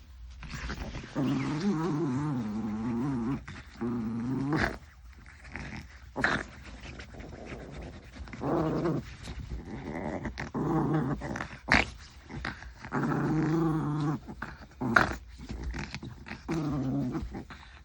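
Maltese dog play-growling in repeated bouts, the growl wavering in pitch, with short sharp clicks in between.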